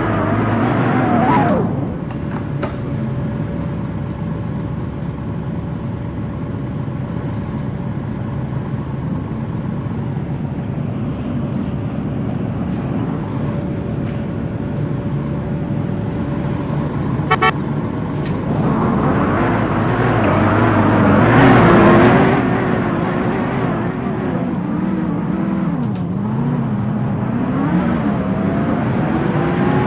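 Scania K230UB bus engine idling with a faint steady tone over it, then about two-thirds of the way in the engine speeds up as the bus pulls away, its pitch rising and dropping as the automatic gearbox changes up.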